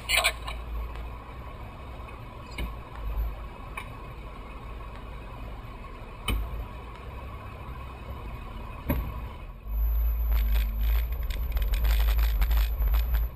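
Toyota Tacoma 4x4 crawling over rough off-road ground, heard inside the cab: a low rumble with occasional sharp knocks and rattles. From about ten seconds in the rumble grows louder, with a quick run of clattering knocks.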